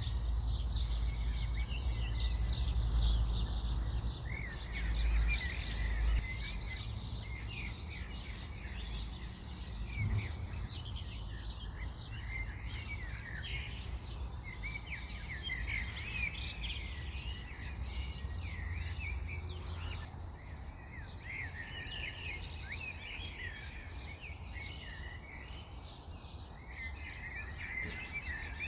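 Several birds chirping and singing at once, a dense chorus of quick, high chirps and trills. A low rumble runs underneath, heavier in the first six seconds.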